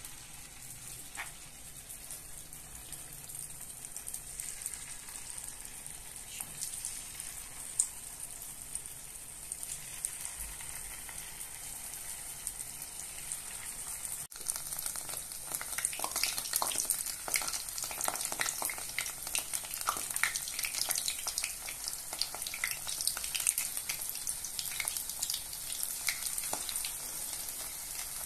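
Pieces of tahu aci dough (tofu mixed into a tapioca-starch batter) frying in hot oil in a pan: a steady sizzle with crackling pops, louder and busier from about halfway on.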